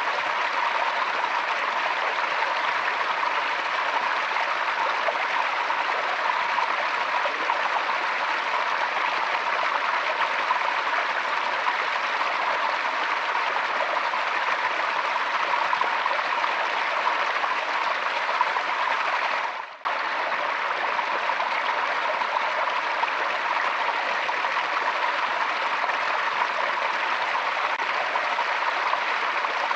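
Forest stream flowing steadily, with a momentary dropout about two-thirds of the way through.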